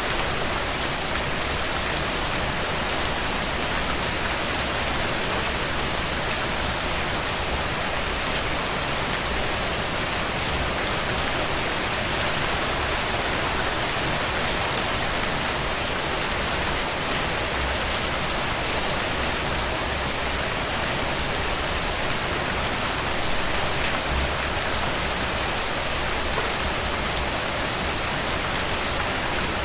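Steady rain falling on a tent: a dense, even hiss sprinkled with faint small ticks.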